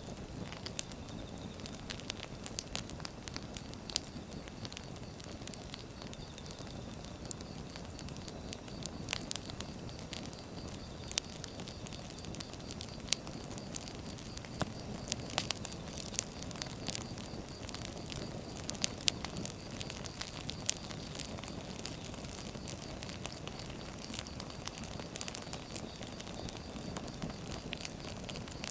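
Wood fire burning: a steady low rush of flames with irregular sharp crackles and pops from the burning logs.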